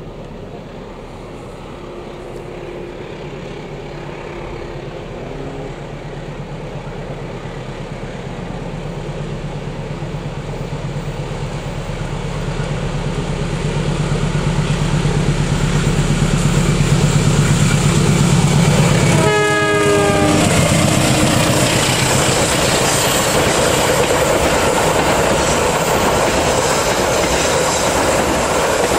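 Diesel-electric locomotive approaching, its engine drone growing steadily louder, then passing about two-thirds of the way through with a brief horn sound that drops in pitch. The passenger coaches follow with a steady rumble and clickety-clack of wheels on rail.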